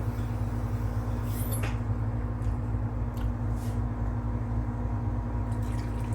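Pots heating on a kitchen stove, bubbling as they come toward the boil, over a steady low hum, with a few faint clicks and taps.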